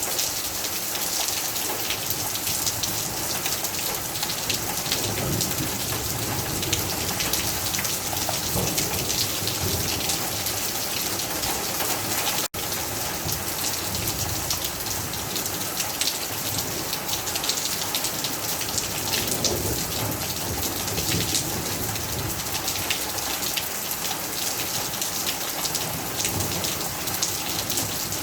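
Heavy rain falling steadily, a dense patter of drops on surfaces. The sound cuts out for an instant about twelve seconds in.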